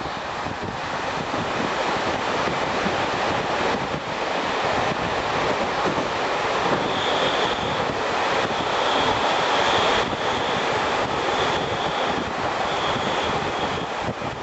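Passenger train running on the rails, heard through an open carriage window with rushing wind on the microphone. From about seven seconds in, a high squeal from the wheels comes and goes four times.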